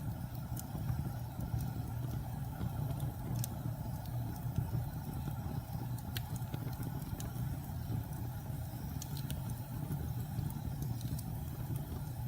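Wood fire of burning logs in a fireplace: a steady low roar of flames with scattered sharp crackles and pops, one every second or two.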